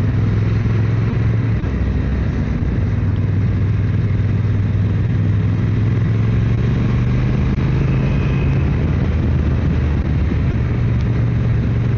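Motorcycle engine running at a steady cruise on the highway, a continuous even hum.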